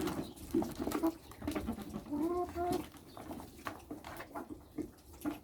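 Domestic birds making short low calls while they feed, with scattered light knocks.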